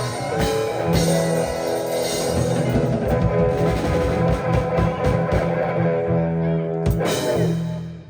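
Live rock band playing an instrumental passage with electric guitar and drum kit, ending on a final hit about seven seconds in that rings out and fades.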